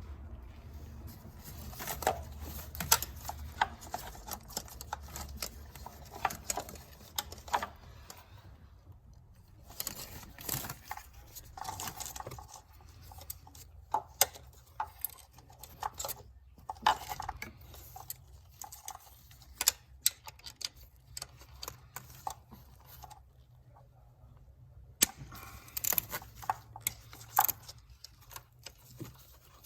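Irregular sharp clicks and clatter of objects being handled, in bursts, over a low steady hum.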